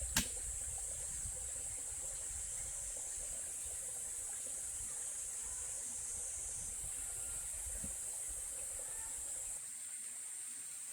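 Steady high-pitched drone of forest insects, with one sharp click just after the start and a low rumble underneath that drops away near the end.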